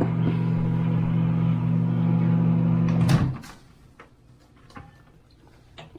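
Microwave oven running with a steady low hum, which stops suddenly with a click a little over three seconds in as the cycle ends. A few faint clicks follow, then a sharper click of the door latch near the end.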